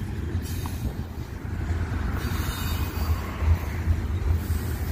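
Intermodal freight train's container cars rolling past, a steady rumble of wheels on rail that grows a little fuller about two seconds in.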